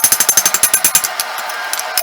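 Rapid hammering on steel: a fast run of ringing metal blows, about ten a second, that thins to a few scattered strikes about a second and a half in, over a steady rushing noise.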